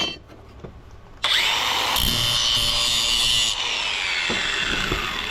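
A handheld power tool's motor is switched on about a second in and spins up with a rising whine. It runs loud for about two seconds, is released, and winds down with a long falling whine.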